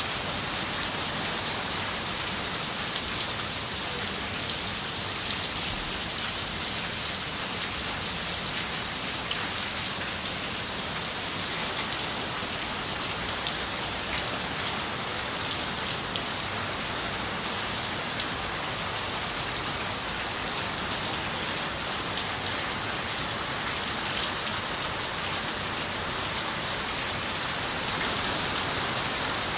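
Steady rain on a window pane, an even hiss of rainfall with scattered sharp ticks of single drops, growing slightly heavier near the end.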